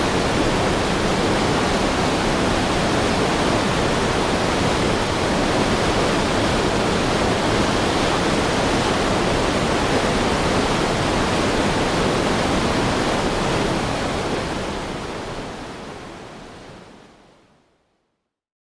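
Heavy river stream rushing steadily, fading out about three-quarters of the way through to silence.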